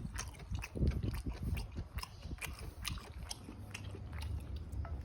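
A person biting and chewing food close to the microphone: irregular wet clicks and crunches of mouth sounds.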